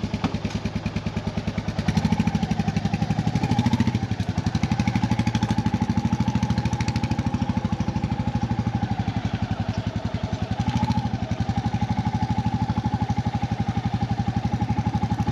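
Royal Enfield motorcycle engine running at low, fairly steady revs with an even pulsing beat, picking up slightly about two seconds in.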